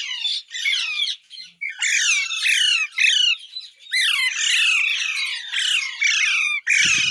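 Pet parrot screeching: a fast run of short, harsh, high calls, each sliding down in pitch, several a second with a few brief breaks. A low rustling noise joins near the end.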